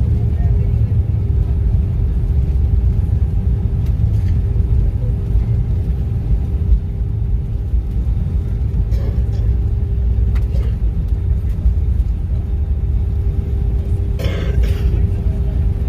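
Cabin noise inside an Airbus A319: the CFM56 engines and airframe make a loud, steady low rumble with a steady hum above it. A brief, slightly brighter sound stands out near the end.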